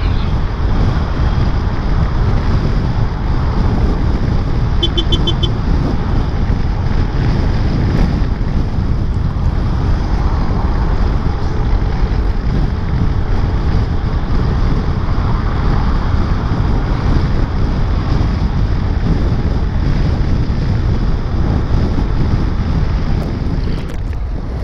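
Steady wind rush buffeting the microphone of a moving scooter in heavy rain, mixed with road noise. A short run of four quick high beeps comes about five seconds in.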